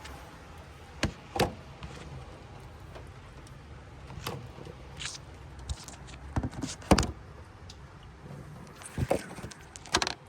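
A few sharp knocks and clunks of parts being handled at a car, the loudest about seven seconds in, over a low steady background rumble.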